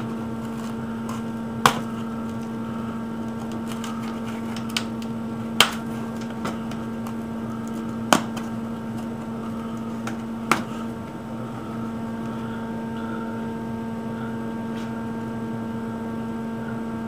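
Steady electrical hum from the workshop, with about four sharp clicks and knocks spread through the first ten seconds as the cut plastic box is handled and the cut-out pieces are removed.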